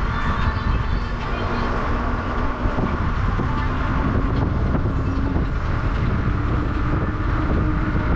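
Wind rushing over the microphone while riding an e-bike, with a steady hum from the moving bike underneath that shifts slightly in pitch about three seconds in.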